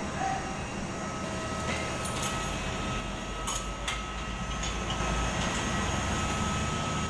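Steady noise and whine of a jet airliner, with a few faint clicks about two to four seconds in.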